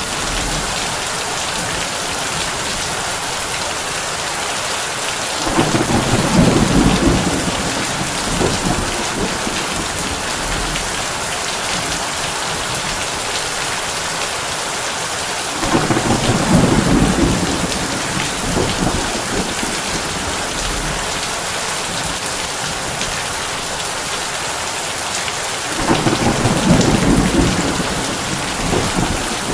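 Heavy rain drumming steadily on a tin roof, with a low rumble of thunder swelling and fading three times, about ten seconds apart.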